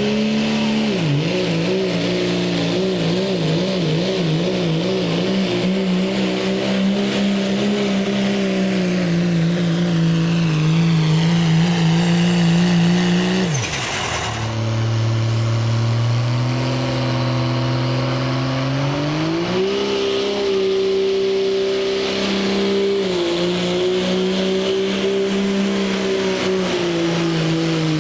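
Diesel pickup truck engine running hard at high revs under load during a sled pull. Its pitch wavers quickly for the first few seconds, dips sharply with a crack about halfway, then holds lower and climbs again toward the end.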